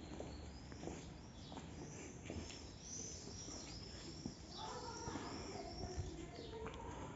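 Faint birdsong: a bird repeating short, high chirping notes in quick succession for a few seconds in the middle, with other chirps scattered around it.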